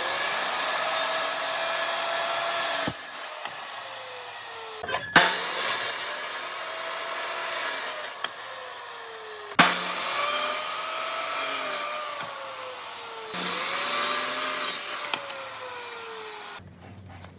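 Handheld power tool working wood, switched on in bursts several times: each run starts sharply at full speed, and after release its whine falls in pitch as it spins down.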